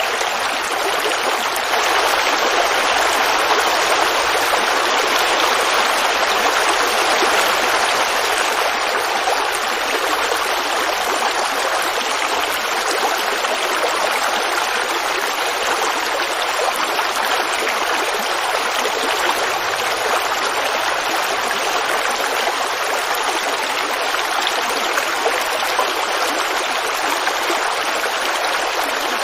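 Forest creek water running and babbling steadily.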